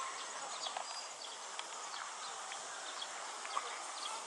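Outdoor ambience: a steady high hiss with scattered short bird chirps and clicks throughout.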